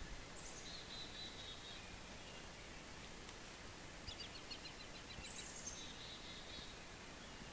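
Faint bird song over a steady outdoor hiss: two similar phrases, each starting with a high note and dropping into a trill, and a quick run of chirps between them.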